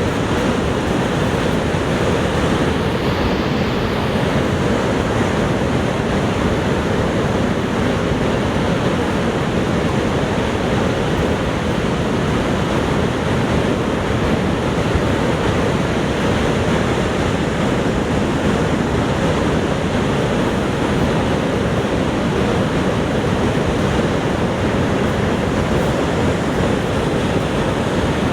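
Niagara Falls: a loud, steady rush of falling water that never lets up, heaviest in the low and middle range.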